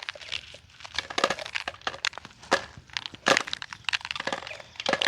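Dried corn being shelled by hand: kernels being twisted off the cob with a rapid, irregular crackling and clicking, and loose kernels pattering down.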